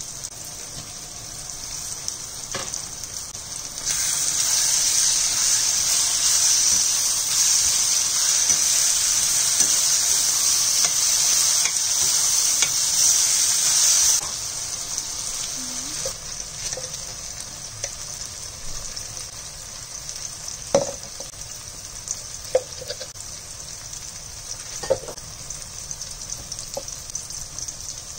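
Onions and tomatoes frying in oil in a stainless steel pan, sizzling steadily. The sizzle turns much louder about four seconds in and drops back about ten seconds later. In the second half a metal spatula stirs, with a few sharp taps against the pan.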